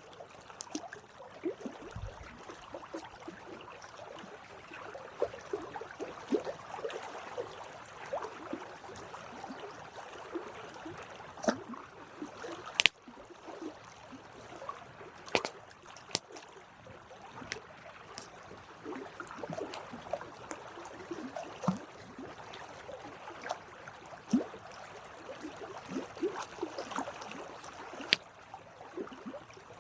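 Wood campfire burning with a steady hiss and crackle and frequent sharp pops, a few of them loud, scattered irregularly throughout.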